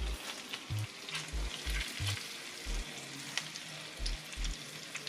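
Bananas frying in a pan of melted margarine and sugar: a steady sizzle with faint crackles, and a few soft low bumps.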